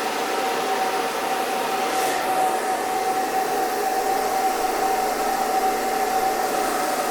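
Hair dryer running steadily: an even blowing rush with a constant motor whine through it.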